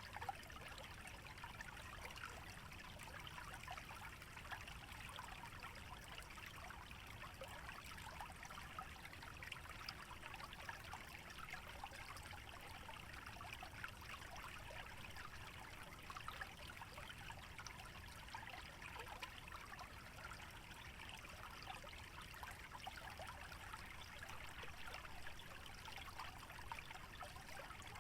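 Small wetland stream trickling steadily, a fine continuous babble of water. A low, even rumble underneath.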